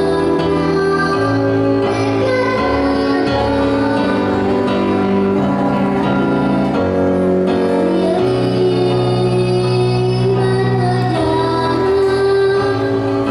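A young girl singing a gentle children's song over an instrumental accompaniment, with long held notes over a slowly moving bass line.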